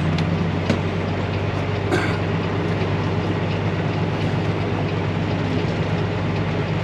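Truck engine running with a steady low hum and rolling noise, heard from inside the cab, with a few light rattling knocks, one about two seconds in.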